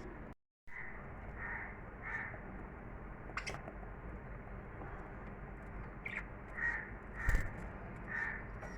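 Pet lovebirds giving short, harsh chirping calls, repeated about two a second in two runs. There are a few sharp clicks and a louder thump about seven seconds in.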